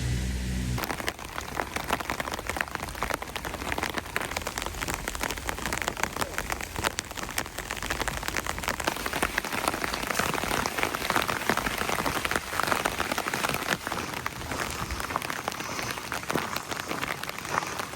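Steady rain, many individual drops ticking on a surface close to the microphone.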